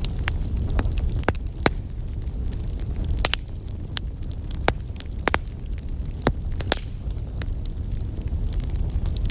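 Wood fire in a fireplace crackling, with irregular sharp pops about once or twice a second over a low steady rumble.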